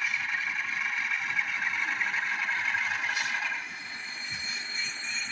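Sound decoder of a model Class 47 diesel locomotive playing its engine running through the model's tiny speaker, thin and without bass. A brief sharper sound comes about three seconds in, and thin high squealing tones come in near the end.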